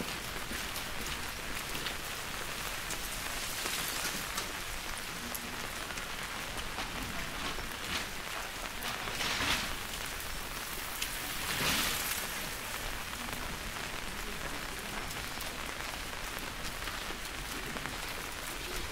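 Steady rainfall, an even hiss of drops on surfaces, with a few short louder swells about halfway through.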